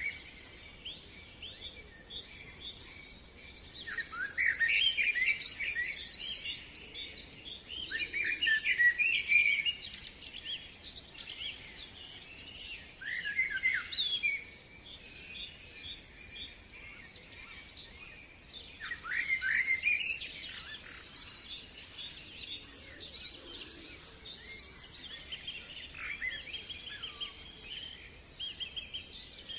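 Several songbirds singing and calling at once: overlapping quick chirps and trills, with louder song phrases every few seconds.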